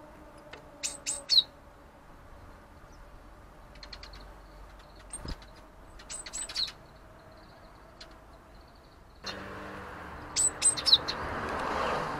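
Small garden birds calling: three quick groups of three or four short, very high notes, the last note of each group sliding down. Under the last group a rushing noise comes in suddenly and swells.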